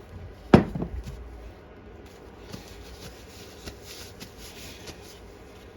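Hands-on cleaning of a lawn mower carburetor: a sharp knock about half a second in as a part or can is set down. This is followed by a few seconds of uneven hissing and scrubbing as the carburetor body is cleaned.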